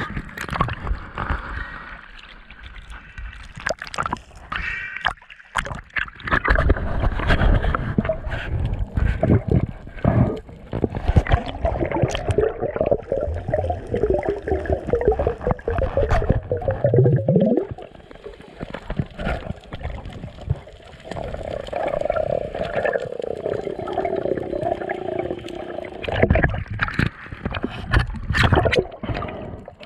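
Gurgling, bubbling water with many irregular clicks and knocks, and a wavering murky rumble that swells twice.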